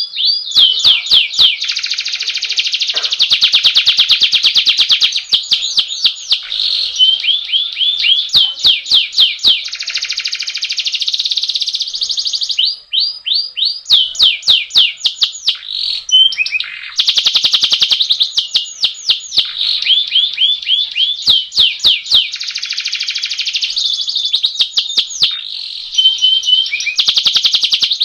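Domestic canary singing a long, nearly unbroken rolling song: fast trills and rapid runs of repeated high chirps, one phrase running into the next, with a brief dip about halfway through.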